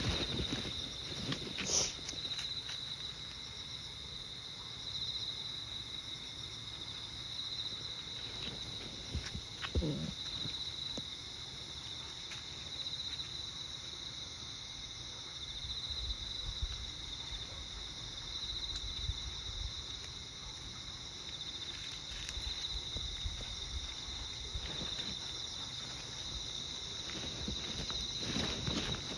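Insects trilling steadily in a high, gently pulsing chorus, with a few faint rustles and clicks.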